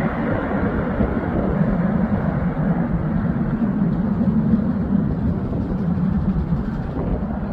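Airliner jet engines during a landing: a steady rumble, with the higher part fading slightly after the first few seconds.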